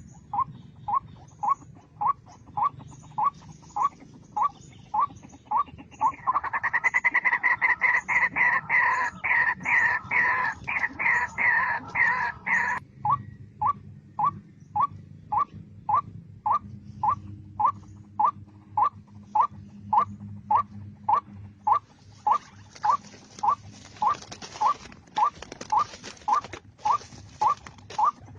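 White-breasted waterhen (ruak-ruak) calling: one short rising note repeated steadily, a little under twice a second. From about six to thirteen seconds in the calls are louder and fuller, and a steady hiss joins about two-thirds of the way through.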